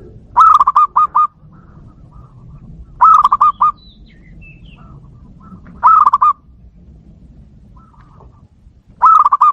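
Zebra dove (perkutut) cooing: four loud bursts of quick, stuttering coos about three seconds apart, with fainter bird calls in between.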